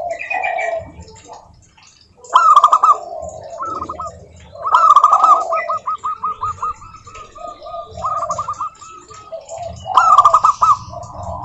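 Zebra doves (perkutut) cooing: rapid runs of short, staccato repeated notes, with several birds calling over one another. The runs are loudest about two, five and ten seconds in.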